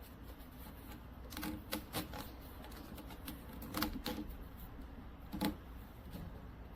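Scattered sharp clicks and knocks, a handful close together in the first half and the loudest two about four and five and a half seconds in.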